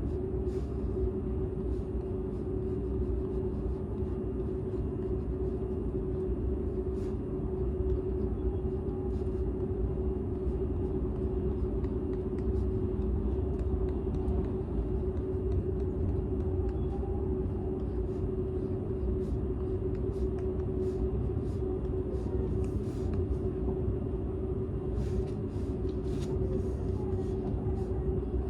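Cabin of a Seibu 001 series Laview limited express train running at speed, heard from inside an unpowered driving trailer car. A steady low rumble of the wheels on the rails with a constant hum, and faint light ticks now and then, more of them near the end.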